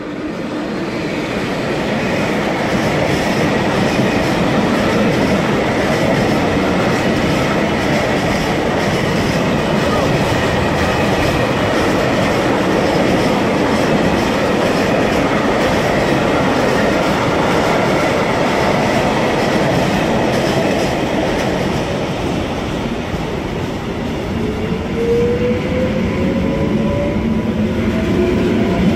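A freight train rolling past on the next track, its wheels clattering steadily, beside an SKM EN57 electric multiple unit. Near the end the EN57 pulls away, and its traction motors give a rising whine.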